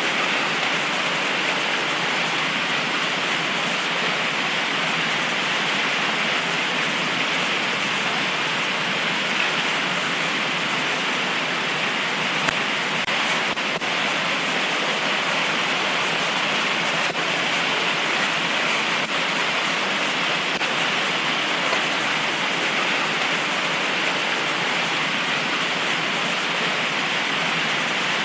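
Heavy tropical rain pouring down steadily as an even, unbroken hiss.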